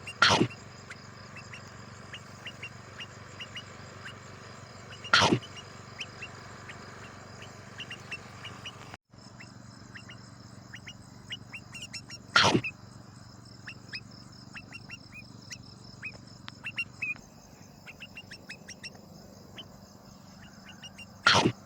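Crickets chirping in a steady high pulsing trill, with many short high chirps throughout. Four loud, harsh, short bursts stand out: one at the very start, one about five seconds in, one about twelve seconds in, and one near the end.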